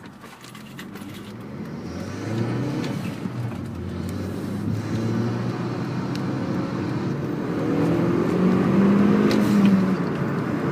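Hyundai Veloster Turbo's turbocharged 1.6-litre four-cylinder engine accelerating under boost, its pitch and loudness climbing steadily over several seconds. This is a pull on which boost bounces between about 25 and 20 psi, a surge the owner links to a newly fitted Tial blow-off valve.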